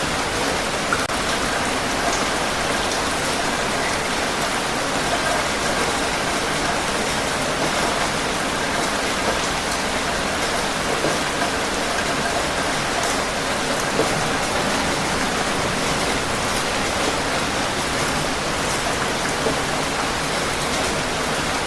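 Steady rain falling on a surface, an even hiss of rainfall with scattered individual drops ticking.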